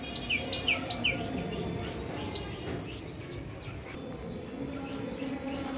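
A small bird chirping: a quick run of about six short, downward-sliding chirps in the first second, and one more a couple of seconds in, over a faint steady background hum.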